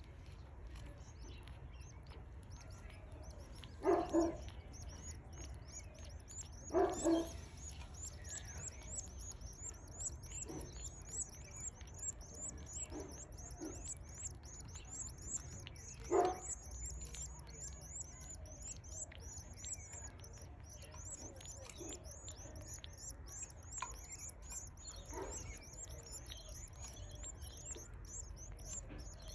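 Canary chicks cheeping rapidly and continuously, many thin high-pitched calls a second, growing denser after the first few seconds. Two or three short knocks stand out about 4, 7 and 16 seconds in.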